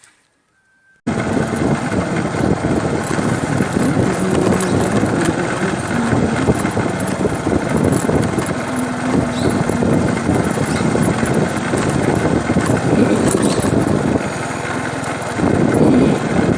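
Steady loud noise of a running motor vehicle, cutting in abruptly about a second in after near silence.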